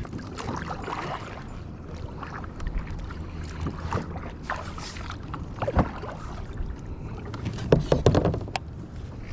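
Kayak on the water: splashing and lapping of water with scattered knocks and clatter of gear against the hull, a cluster of louder knocks near the end.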